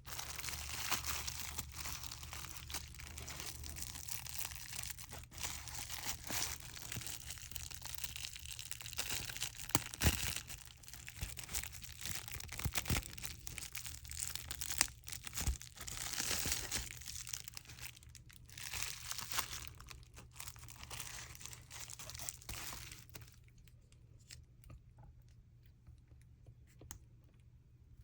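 Close-up crinkling and crunching of craft materials being handled, with scattered sharp clicks, dying down to faint ticks about 23 seconds in.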